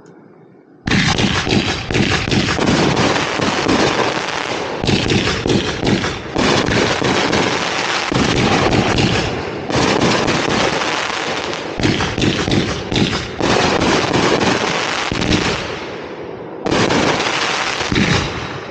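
Consumer fireworks barrage firing from the ground: a dense, rapid string of launches and crackling bursts. It starts suddenly about a second in and goes in volleys with brief lulls, dies down shortly before the end, then starts up again.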